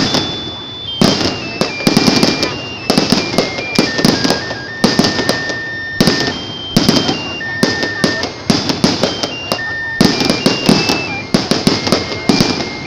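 Aerial fireworks shells bursting overhead in quick clusters of bangs and crackles, about one cluster a second. Over them a simple high-pitched electronic tune plays, one note at a time.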